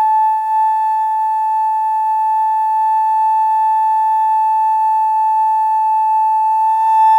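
Daegeum, the large Korean transverse bamboo flute, holding one long, steady high note. The note grows a little louder and begins to waver near the end.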